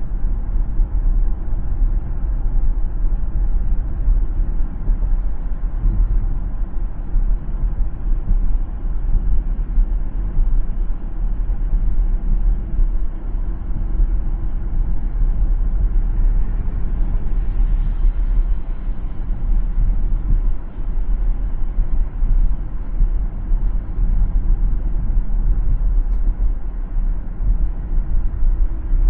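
Car driving along a city road: a steady low rumble of tyres and engine.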